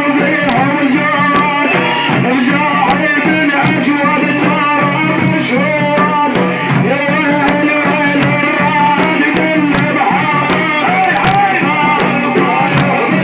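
Devotional chant in praise of the Prophet, sung by a solo munshid over music, with drum strokes keeping a steady beat.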